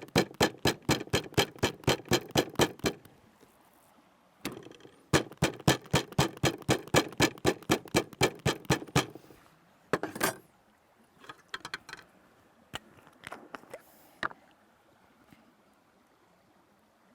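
Meat being pounded to tenderise it: a quick, even run of strikes, about four or five a second, that stops about three seconds in, starts again for about four seconds, and gives way to a few scattered knocks.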